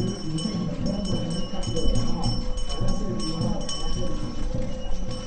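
Small bells ringing repeatedly over music and a background of voices.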